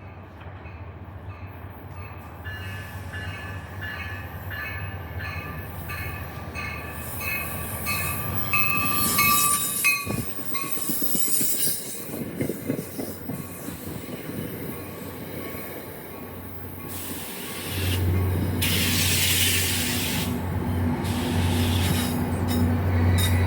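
NJ Transit commuter train moving along the rails, its wheels squealing with high pulsing ringing tones for the first several seconds. A loud, low steady hum comes in about three-quarters of the way through as the train draws close.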